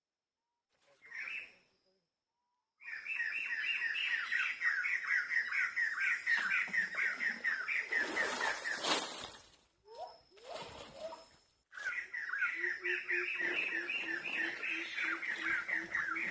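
Bird chirping in fast runs of repeated notes. It starts suddenly about three seconds in, breaks off abruptly about halfway, and starts again a couple of seconds later, with a low pulsing note under it near the end.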